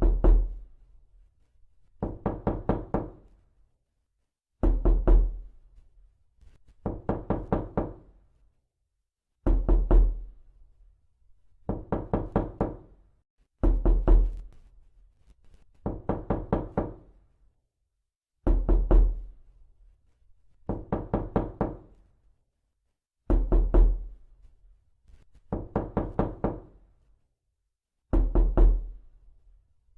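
Knocking sound effect, looped: bursts of several quick raps repeating about every two seconds, every other burst opening with a heavier thud.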